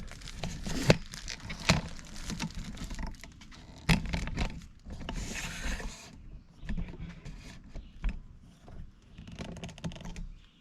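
Hand work on a push mower's parts: irregular clicks, knocks and scrapes of metal and plastic being handled and fitted, with a brief rustle about halfway through.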